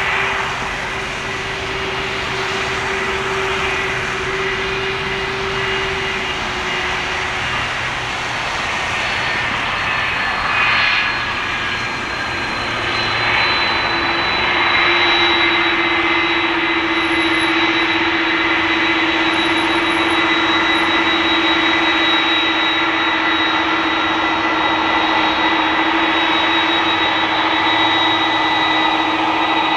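Jet airliner engines running: a steady roar with high whining tones. The tones shift and the sound grows a little louder about fourteen seconds in.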